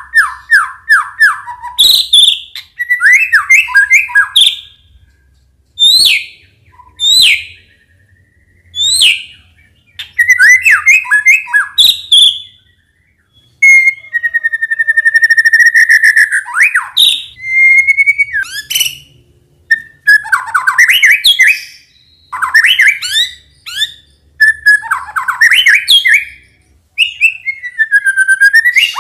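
White-rumped shama singing: loud, varied phrases of clear whistles, pitch sweeps and rapid trills, each a second or two long with short pauses between them.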